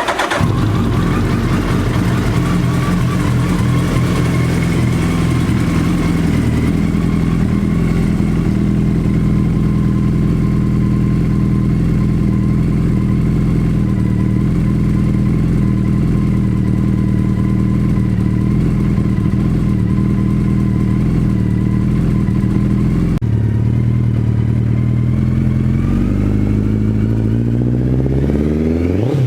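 Suzuki Hayabusa's inline-four engine idling steadily just after starting. Near the end the throttle is blipped and the revs climb, rising in pitch, then drop back.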